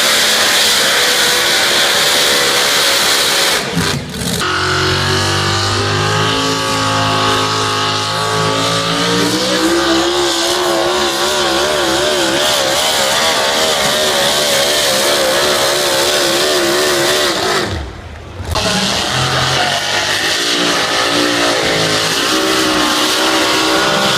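Diesel pulling tractor's engine running hard under load while dragging the weight sled, its pitch wavering up and down. The sound dips briefly twice, about 4 s in and again near 18 s, and comes back each time.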